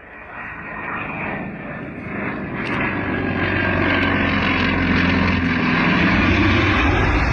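North American T-28 Trojan's radial piston engine and propeller running, growing steadily louder as the aircraft comes closer.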